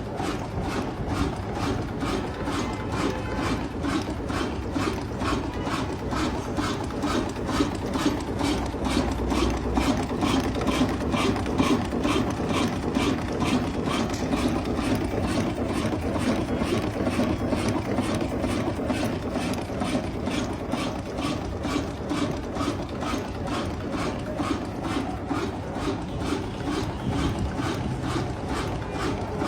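Old diesel engine running steadily, with an even, regular mechanical clatter.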